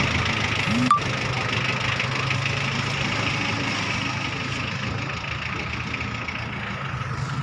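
Tractor engine running steadily at a low idle, with a single sharp click about a second in.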